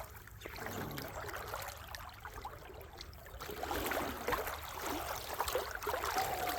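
Creek water trickling, with scattered scuffs and crunches of footsteps on slick ground.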